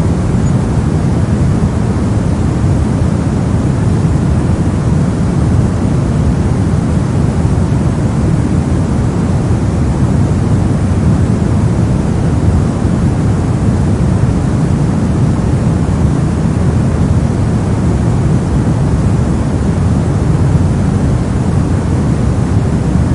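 Steady soft noise for sleep or study: an even, unchanging hiss-rumble, heaviest in the low end and darker than pure white noise.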